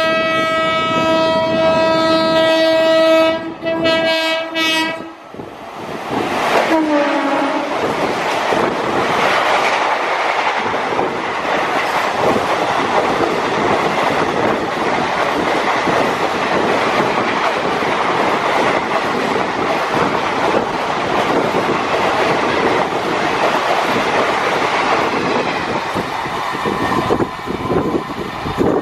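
An Indian Railways locomotive sounds a long horn blast, a short gap, then a second shorter blast, and the train then rushes past with loud, continuous rolling noise and wheels clattering over the rail joints. A brief falling tone is heard just after the horn.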